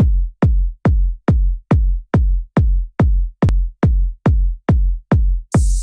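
Electronic dance track opening on a solo drum-machine kick drum, a deep decaying thump a little over twice a second. A hissing white-noise layer comes in near the end.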